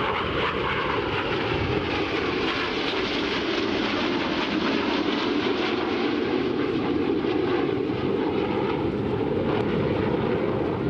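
BAE Hawk T1 jet trainers of the Red Arrows flying past during an aerobatic display, their Adour turbofans making a steady jet noise with no breaks.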